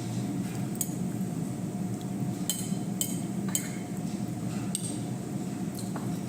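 Eating utensils clinking lightly against a dish, about six small clinks spread over a few seconds, over a steady low hum.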